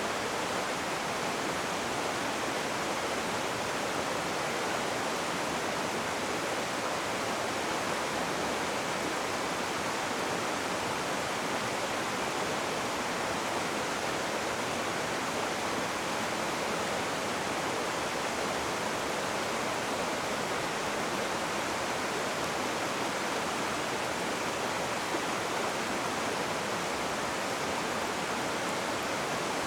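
Rushing river water: a steady, unbroken rush with no distinct splashes or changes.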